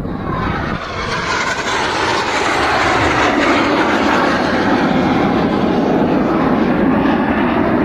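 A formation of BAE Hawk T1 jet trainers flying past. The jet noise swells over the first couple of seconds, then holds loud while its pitch slowly falls as the aircraft go by.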